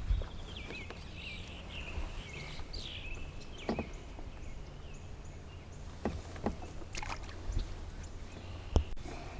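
Wind rumbling on the microphone in a canoe, with a few scattered knocks and taps against the hull, the sharpest near the end. A bird sings in the background for the first few seconds and again near the end.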